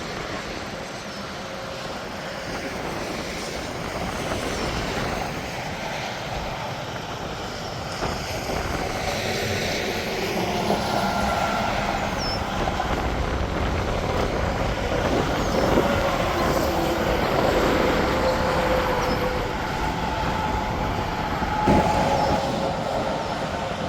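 Interstate traffic passing: a steady rush of tyres and engines from trucks and cars, with faint steady whines through it. It grows louder toward the middle as heavier vehicles go by.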